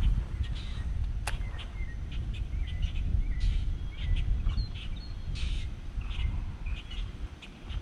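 Birds chirping in short, scattered calls over a steady low rumble, with one sharp click about a second in.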